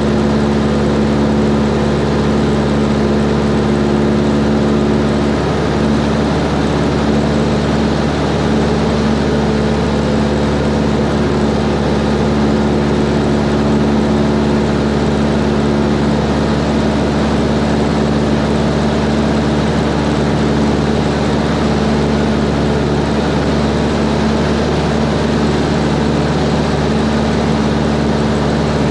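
Cessna 140's single piston engine and propeller running at a steady power setting in flight, a continuous even drone.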